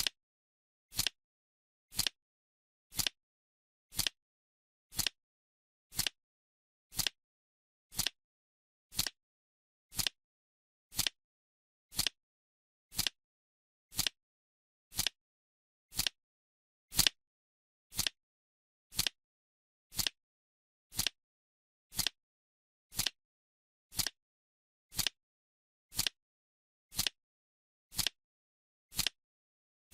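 Countdown timer ticking: one sharp clock-like tick every second, evenly spaced, with silence between ticks.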